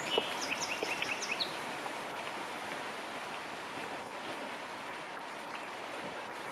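Forest ambience: a steady rushing background, with a bird giving a quick run of short chirps in the first second and a half.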